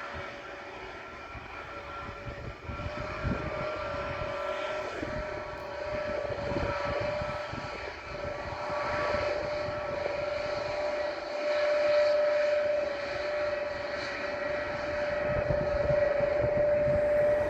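Airbus A321 airliner's jet engines: a steady whine that grows steadily louder as the jet approaches, over an irregular low rumble.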